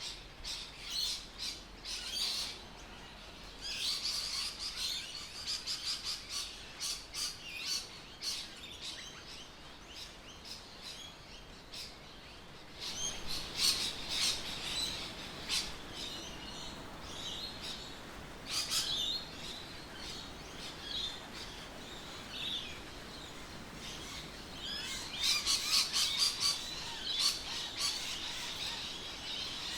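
Birds chirping, a run of many short, quick chirps with gaps between them.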